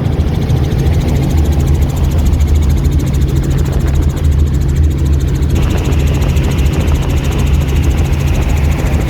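Robinson R44 helicopter's steady rotor and engine noise heard from inside the doorless cabin, with a higher hiss joining a little over halfway through.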